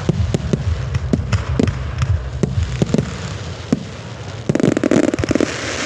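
Fireworks going off: a steady run of sharp bangs over a low rumble, with a dense burst of rapid crackling a little before the end.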